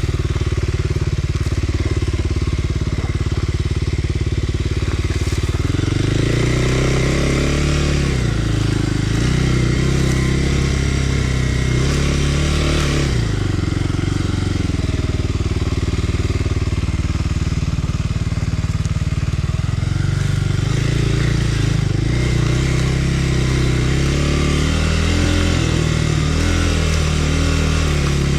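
Kawasaki KLX300R dirt bike's single-cylinder four-stroke engine running on the trail, its pitch rising and falling again and again as the throttle is worked.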